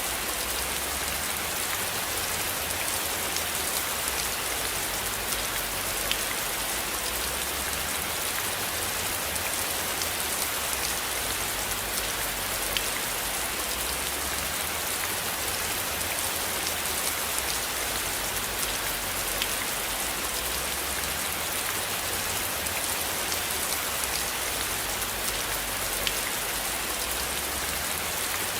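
Steady rain falling on a surface, an even hiss with scattered individual drop ticks. A low rumble sits underneath, slowly swelling and fading.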